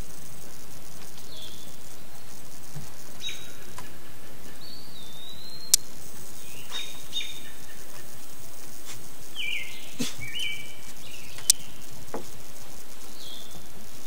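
Birds calling: scattered short chirps and brief whistled notes, some sliding in pitch, over a steady insect background, with a couple of sharp clicks.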